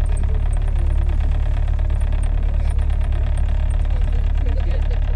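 Tour boat's engine running steadily at a constant speed, a deep even drone with a fine rapid pulse. Faint voices can be heard behind it.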